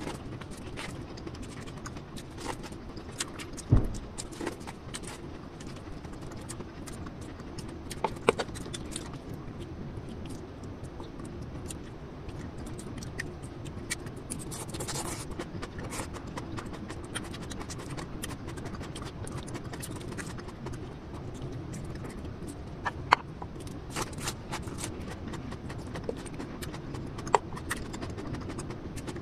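Close-miked eating: chewing and wet mouth clicks while eating corn on the cob and spoonfuls of sautéed shrimp paste, with a handful of sharp louder clicks over a steady low background noise.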